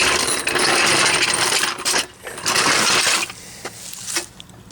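A bunch of keys jingling in two spells, followed by a few light clicks.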